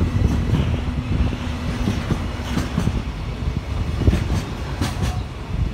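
Freight train's container flat wagons rolling past at close range: a steady low rumble of wheels on rail, with sharp clacks as the wheels pass over rail joints, several close together in the second half.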